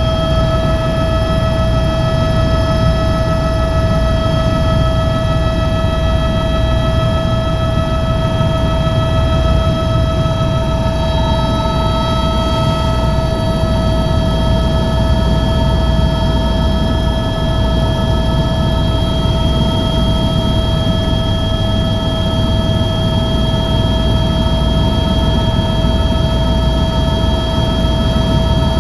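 Helicopter running: a steady high turbine whine over a continuous low rumble.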